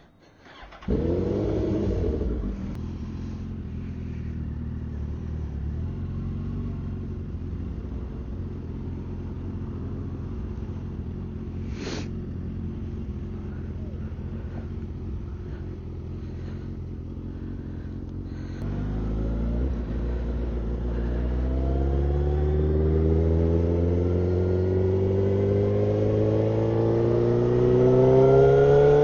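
Suzuki GSX-R1000 inline-four engine firing up about a second in and idling steadily, then pulling away after about 18 seconds with the revs climbing steadily under acceleration.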